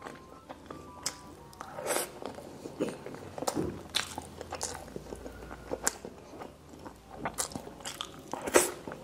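Close-miked mukbang eating: chewing and biting with sharp mouth clicks and lip smacks as pork asado and rice are eaten by hand, the loudest smack near the end. Faint background music plays under it.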